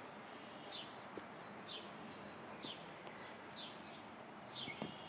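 A bird calling faintly: a short, high, downward-slurred note repeated about once a second, with a couple of soft clicks in between.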